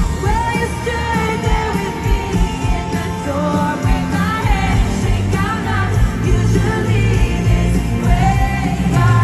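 Live pop music at a stadium concert: a lead singer over a full band with a steady low beat, heard through the stadium sound system from the audience.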